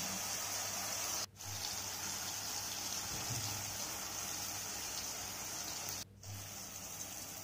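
Onion and tomato masala sizzling in oil in a pan: a steady hiss that drops out for a moment twice.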